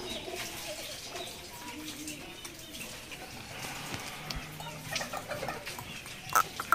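Birds calling softly, with a few low cooing notes, and a couple of sharp taps or clicks near the end.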